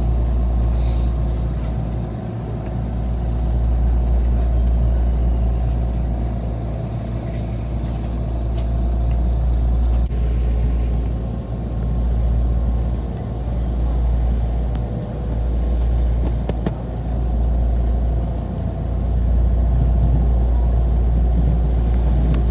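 Train running: a steady low rumble with a faint steady hum above it, swelling and easing every few seconds.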